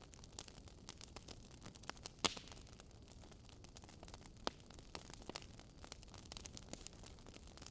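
Fire pit fire crackling: a steady stream of small snaps, with louder pops about two seconds in and again about four and a half seconds in.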